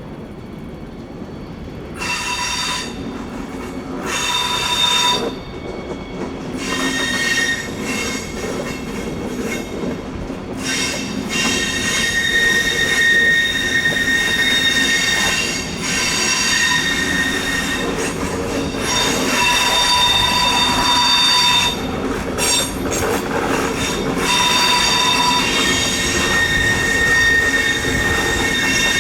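Train wheel flanges squealing against the rails on a tight curve: piercing high squeals that start about two seconds in, break off and return again and again, over the rumble of the train, which grows louder as it comes closer.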